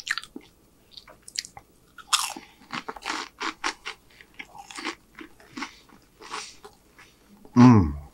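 Close-miked crunching and chewing of a piece of fried okra, a quick run of sharp, crisp bites. Near the end comes a short hum of the voice.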